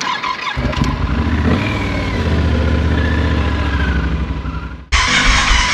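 Motorcycle engine running steadily with small shifts in pitch, then cut off abruptly near the end by a loud rushing noise.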